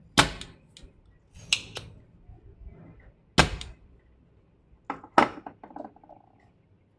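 Several sharp clicks and knocks from hand tools and parts being handled during circuit-board work; the loudest come just after the start and about three and a half seconds in.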